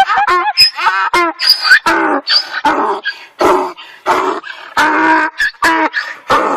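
A dog giving a long, rapid string of short calls that bend up and down in pitch, fast and wavering at first, then settling to about two a second.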